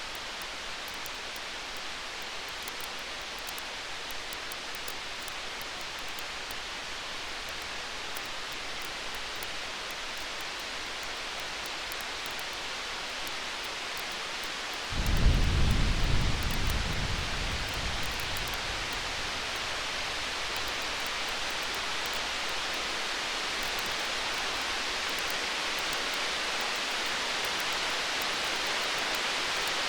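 Distant thunder: a single low rumble breaks in about halfway through and fades away over a few seconds. It sits over a steady storm-ambience hiss with faint crackling.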